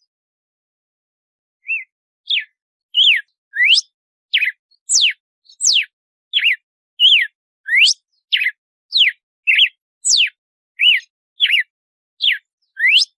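Red-cowled cardinal (galo-de-campina) singing its 'açoite' song: a fast run of short, clear whistled notes, nearly two a second, alternately sweeping sharply down and up in pitch, starting about two seconds in.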